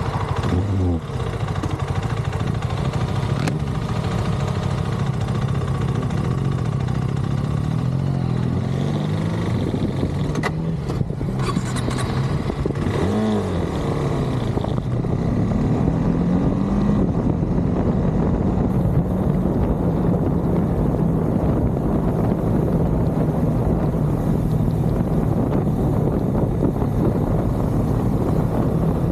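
KTM 390 Adventure's single-cylinder engine running under way, its note rising and falling with the gears and throttle, with a dip and pick-up about halfway through. A steady rush of wind and road noise lies underneath.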